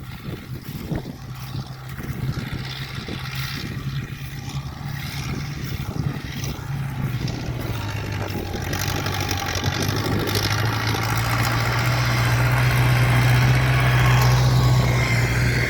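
A motor engine running steadily and getting louder, with a second, lower hum joining about eight seconds in.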